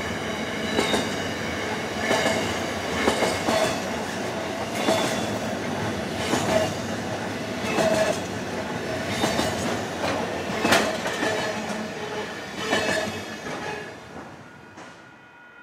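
Container wagons of a passing intermodal freight train, wheels clicking over rail joints in an uneven run of knocks with a steady wheel squeal. The sound fades away near the end as the last wagon passes.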